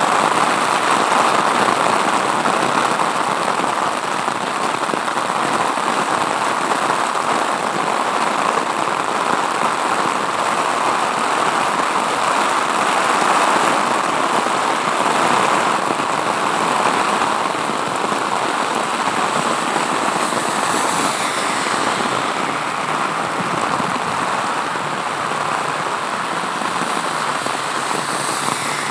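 Heavy rain pouring down steadily, a loud, even hiss of rain hitting surfaces.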